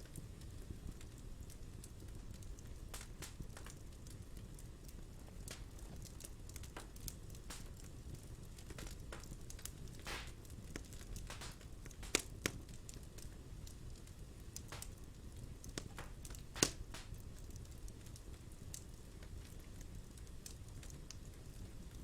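Fire burning in a fireplace, crackling steadily over a low rumble of flames, with scattered small pops and a few sharper, louder snaps about twelve and seventeen seconds in.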